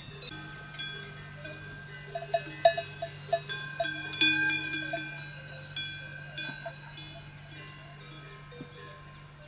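Bells clanking irregularly, each strike leaving a short ringing tone; the strikes come thickest and loudest in the middle and thin out towards the end.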